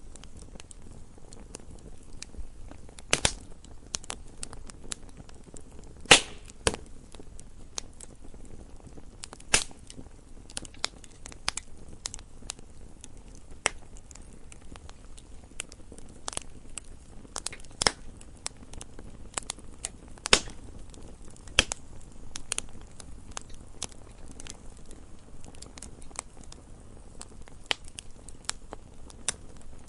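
Wood fire crackling: irregular sharp pops and snaps over a low, soft hiss, with a few louder snaps scattered among the many small crackles.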